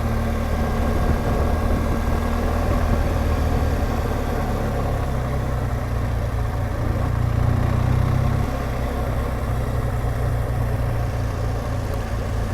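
BMW R1200GSA motorcycle's boxer-twin engine running while riding. The engine note rises about five seconds in and falls back about three seconds later as the throttle changes.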